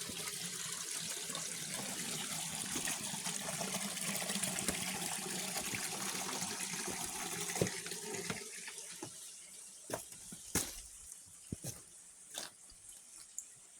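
Running water with a steady rush, fading away after about eight seconds; then a handful of short sharp knocks or clicks.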